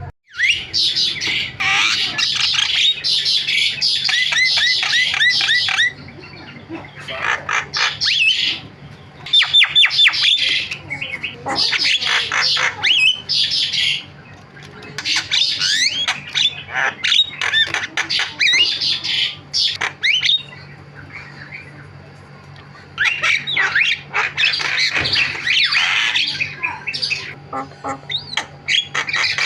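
Javan myna chattering loudly in bursts of harsh squawks and whistles, mixed with quick runs of repeated short notes, the varied mimicking song used as a lure to get other mynas calling.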